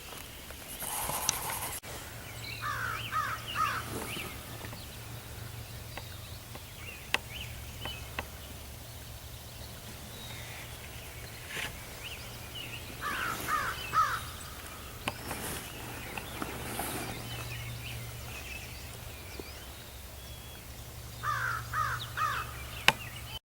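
Crow cawing in short series of about three harsh caws, heard three times, over a steady low background noise with a few sharp clicks.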